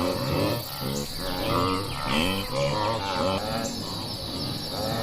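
Short pitched animal calls repeating two or three times a second, each bending in pitch.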